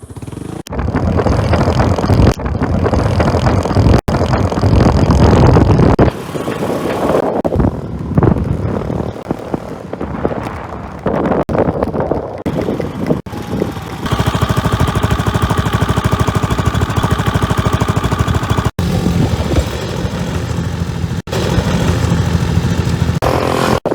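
A 2009 Suzuki Skydrive 125 scooter's single-cylinder engine running while being ridden, mixed with wind noise. The sound comes in several short pieces that cut off abruptly.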